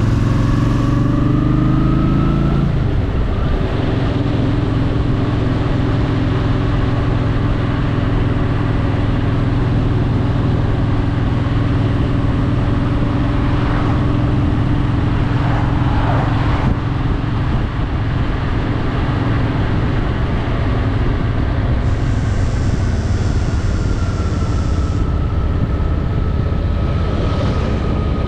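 Honda Shadow VT750's V-twin engine accelerating, its pitch rising for the first few seconds, then dropping at a gear change about three seconds in and running steadily at cruising speed, with wind noise over it.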